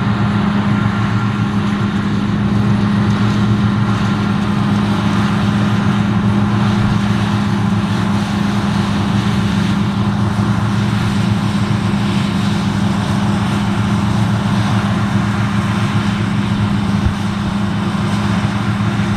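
Claas Lexion 670 combine harvester running steadily, a constant low engine drone over a broad mechanical rush.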